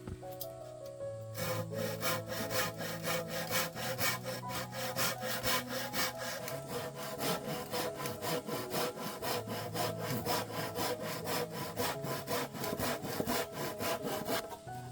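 Hand saw cutting through wood in quick, even back-and-forth strokes, starting about a second in, with soft background music underneath.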